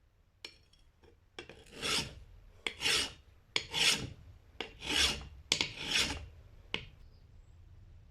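Five rasping strokes about a second apart, each beginning with a short click and lasting about half a second, with a few separate clicks around them.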